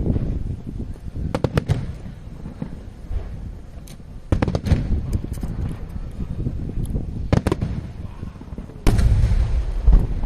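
Aerial firework shells bursting: sharp bangs with crackling and a low rolling rumble between them. The loudest burst comes near the end.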